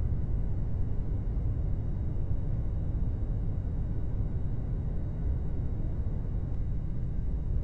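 Steady low rumble of an airliner's engines as heard inside the cabin in flight.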